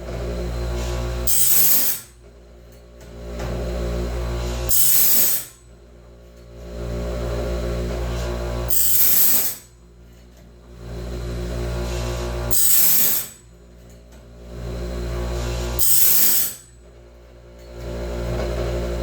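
Home-made bandsaw blade sharpener working through a band tooth by tooth. A grinder hums, then gives a short, harsh hiss as it grinds each tooth, about every three and a half seconds, five times.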